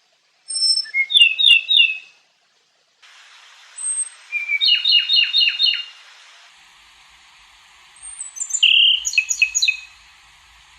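A small songbird singing in three short bursts, each a quick run of high chirping notes, the middle run including several fast downward-sweeping strokes.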